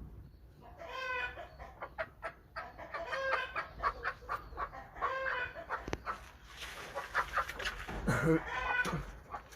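Chickens calling, one call about a second long roughly every two seconds, with sharp clicks in between.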